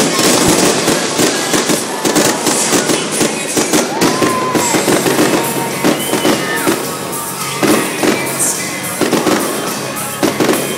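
Fireworks going off in a rapid barrage: dense, overlapping bangs and crackles, several a second.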